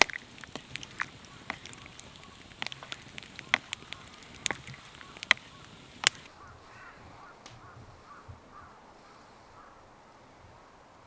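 Wood fire crackling with irregular sharp pops for about six seconds. After an abrupt change, a bird calls faintly in a quick run of short repeated notes.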